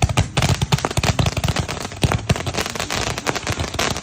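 A string of firecrackers going off: a rapid, unbroken run of sharp pops.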